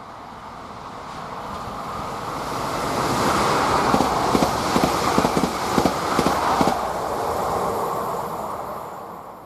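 A train passing at speed: its rolling noise builds up, then wheels clatter in a quick run of clicks over the rail joints as it goes by, and the noise dies away near the end.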